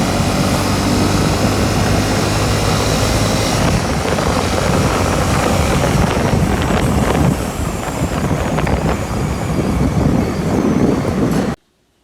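Steady engine drone mixed with rushing wind noise, typical of riding on a motorcycle, that cuts off suddenly just before the end.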